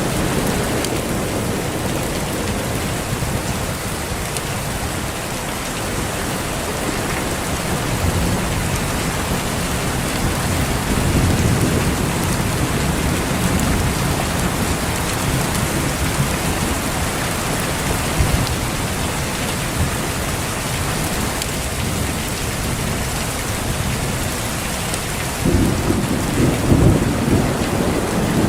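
Steady heavy rain with rolling thunder rumbling underneath, the thunder swelling louder near the end.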